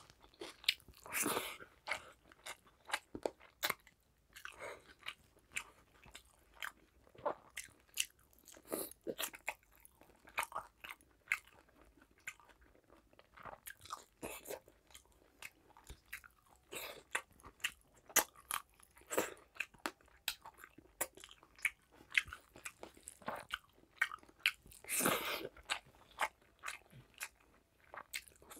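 Mouth sounds of a person eating spicy mutton curry and rice by hand: wet chewing and lip smacking, a steady run of short clicks. There are a couple of longer, louder stretches, about a second in and near the end.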